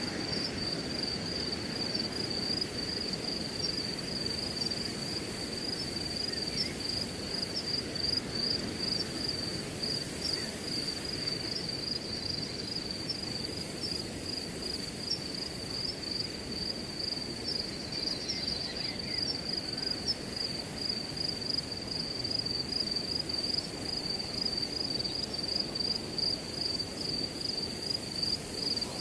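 Crickets chirping in a steady, unbroken high trill, over the low rush of wind through grass.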